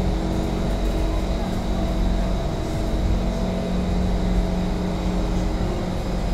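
Steady hum with a thin high whine inside a stationary C151 MRT train carriage, its onboard equipment running while it waits at the platform.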